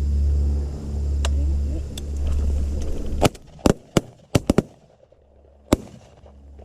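A volley of about six shotgun shots at doves from several hunters, sharp cracks coming fast and irregular in the middle of the stretch, with one last shot about a second later. A steady low rumble runs beforehand and stops as the shooting starts.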